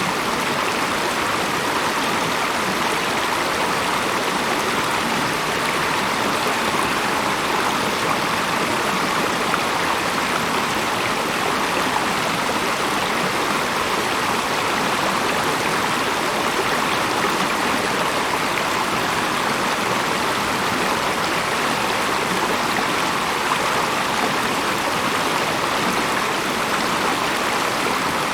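Flowing stream water running steadily, an even rushing with no separate splashes or changes.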